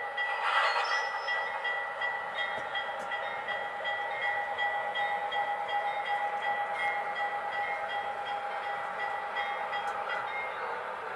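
MTH Proto-Sound 2 model diesel locomotive sound system playing engine running sounds through its small speaker, with a steady tone over the engine and a ringing that repeats over and over, like the locomotive bell. A short burst of noise comes about half a second in.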